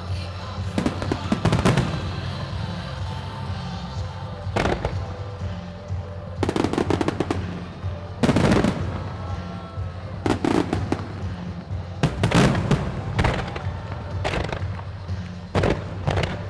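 Starmine fireworks barrage: aerial shells bursting in clusters every second or two, each burst a sharp bang trailing off into echo, over music from the show's loudspeakers.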